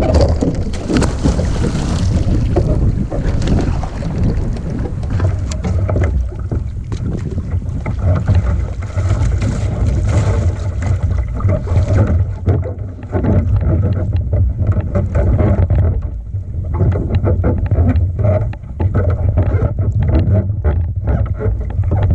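Wind buffeting the microphone on a kayak at sea, a steady heavy low rumble, with water hiss that fades about halfway through. Frequent sharp knocks and clicks from handling on the kayak run through it.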